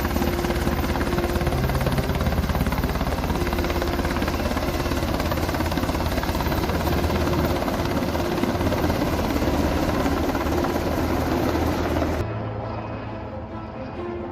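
Aircraft passing close and loud: steady engine and rotor or propeller noise with a fast, even chop. It cuts off abruptly near the end to a quieter sound.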